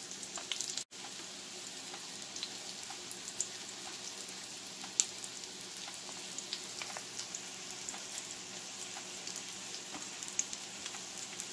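Breadcrumb-coated cod croquettes shallow-frying in oil in a stainless steel skillet: a steady sizzle with scattered crackles and one louder pop about five seconds in. The sound breaks off for an instant about a second in.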